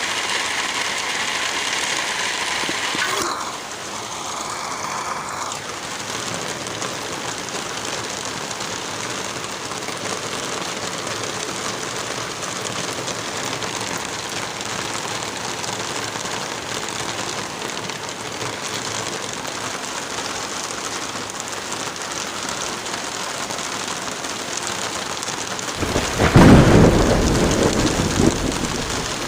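Steady rain falling, with a loud clap of thunder near the end that rumbles low and dies away over about three seconds.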